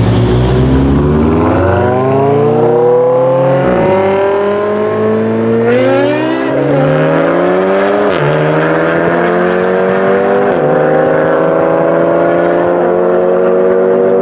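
BMW M5 E60's 5.0-litre V10 with an Eisenmann race exhaust under full-throttle acceleration. Its pitch climbs and drops back at each upshift, several times over.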